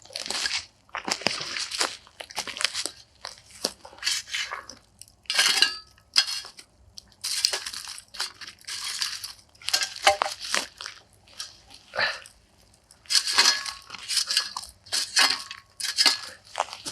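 Aluminium-foil food parcels crinkling and crunching in irregular bursts as they are pushed into a pit of hot coals.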